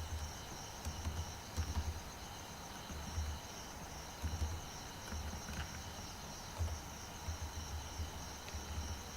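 Background noise of a home recording: a steady faint high-pitched whine with irregular short low bumps about once a second.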